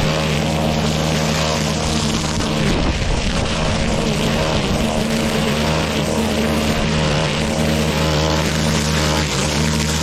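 Petrol lawn mower engine running steadily under load through thick grass, its note briefly wavering about three seconds in and again near the end.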